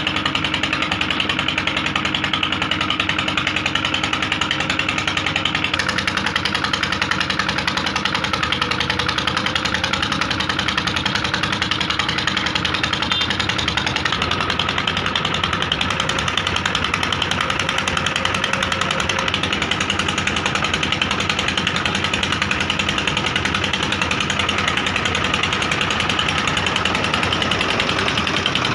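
JCB 3DX backhoe loader's diesel engine running steadily with a fast, even clatter; its note shifts slightly about halfway through.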